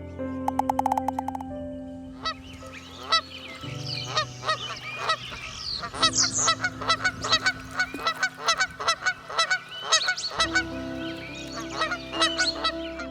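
A flock of birds calling, many short calls overlapping in quick succession. They begin about two seconds in and thin out near the end.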